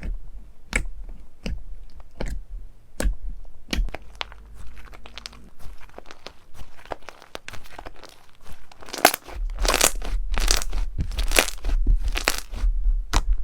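Crunchy slime being pressed and squeezed, giving sharp crackles and pops: scattered at first, then denser and louder in the second half.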